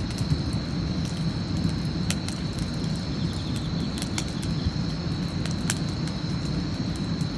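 Wood campfire burning, with several sharp crackles and pops over a steady low rumble and a faint steady high tone.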